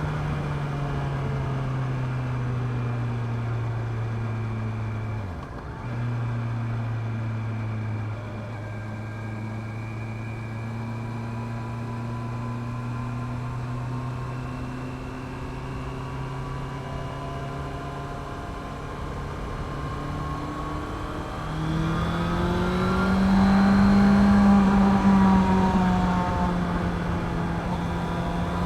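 Honda CB650R inline-four engine running through its stock exhaust while riding: a steady drone with a brief dip about five seconds in, then revving up under acceleration in the last third, easing briefly and rising again near the end.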